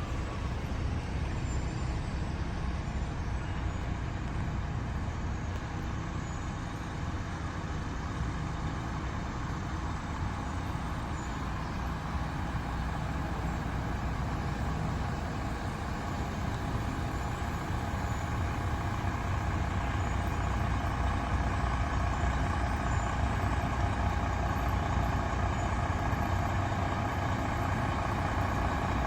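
Fire truck's diesel engine running as the apparatus moves past in a parade, growing louder in the second half.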